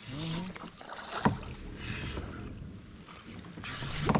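Water splashing and knocking around a kayak as a hooked bass is fought up beside the boat: a sharp click a little over a second in, two hissy spells of splashing, and a loud knock at the end. A brief voice sounds at the very start.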